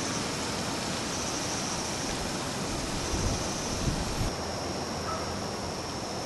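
Steady rushing noise, like wind or running water, with a high hiss that cuts out suddenly about four seconds in, and a few low thumps a little after three seconds.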